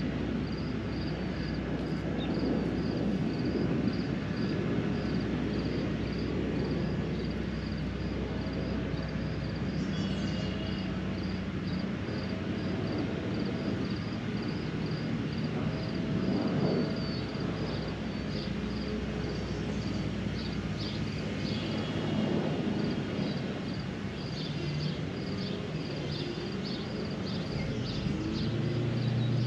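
Outdoor ambience: a low, steady hum of distant traffic under a high chirp that repeats a couple of times a second, with occasional short bird chirps.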